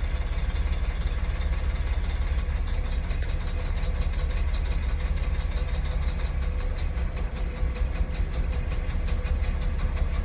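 Caterpillar C13 inline-six diesel engine idling steadily with an even, regular beat, during a cylinder cutout test in which single injectors are switched off so that cylinder doesn't fire.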